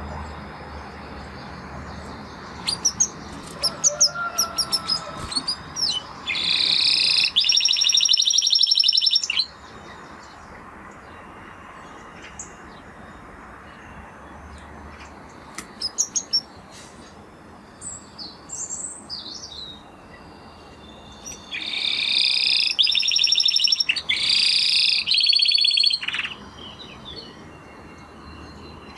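Spanish Timbrado canary singing: scattered short chirps, and two long, loud rapid trills, one starting about six seconds in and another about twenty-one seconds in, over a faint steady hiss.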